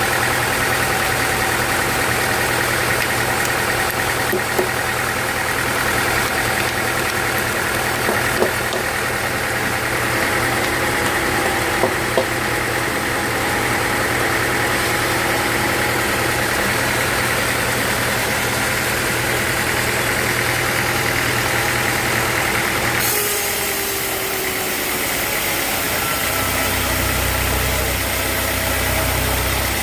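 Sawmill machinery running steadily with an engine-like hum and a few sharp knocks. About three-quarters of the way through the sound changes abruptly, and a deeper hum comes in near the end.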